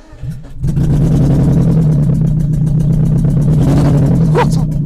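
Minivan engine catching about half a second in and then running loud with a rapid, even rumbling pulse. The exhaust is effectively open because the catalytic converter section has been removed and stolen.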